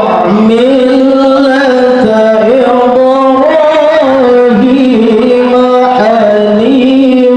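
A male qari reciting the Quran in melodic tilawah style, drawing out long ornamented notes that waver and slide from one pitch to another.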